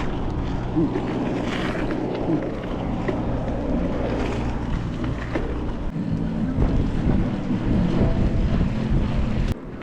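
Wind rumbling on the camera microphone while riding a bicycle, with a steady low hum underneath. A sharp click and a brief drop come near the end.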